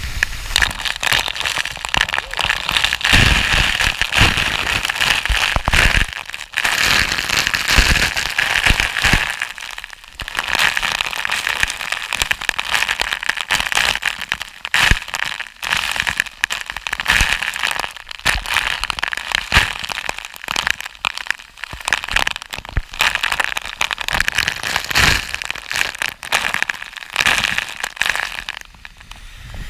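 Waterfall water pouring and splashing right at the microphone: a dense, crackling spatter of drops, with a few brief lulls.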